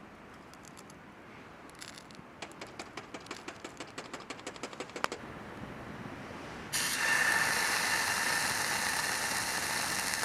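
A quick run of sharp clicks, about six a second for three seconds, then a sudden loud, steady sizzle of food frying in a hot pan.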